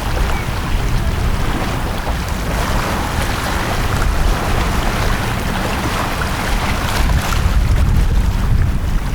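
Sea waves washing onto the shore, a steady hiss that swells every few seconds, over a constant low rumble.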